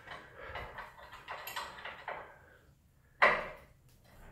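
Light knocks and rattles of metal tools and garage door spring hardware being handled, then one loud sharp clank about three seconds in.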